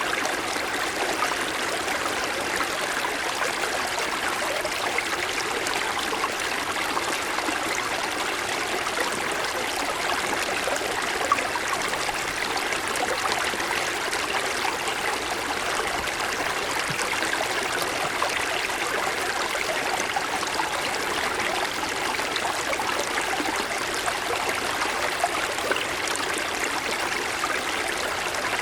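A small mountain stream running over snow-covered stones: a steady splashing and trickling of flowing water.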